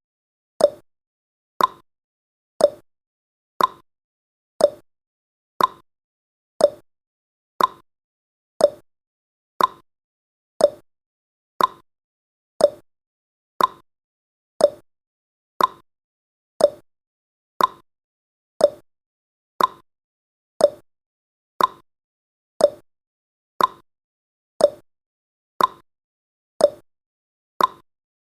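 Countdown timer's tick sound effect, one short tick each second.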